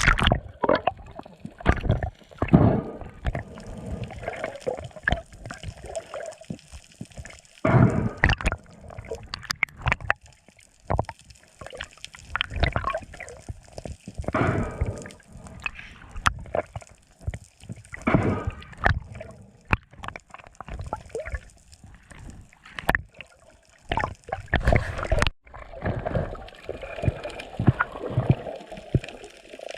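Sea water sloshing and gurgling in irregular surges, with splashes and a few sharp knocks.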